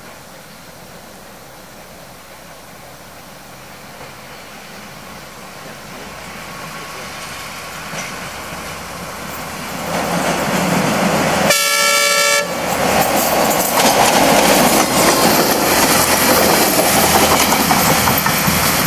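A train approaching and growing louder, sounding its horn in one blast of about a second partway through, then running past close by, loud.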